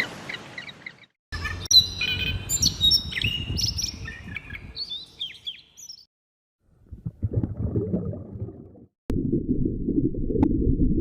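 Birds chirping and twittering in many quick, short calls for several seconds. After a break, low rumbling noise follows.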